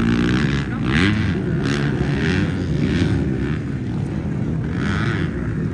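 Motocross bike engines running hard on the track, the pitch rising and falling as the riders work the throttle.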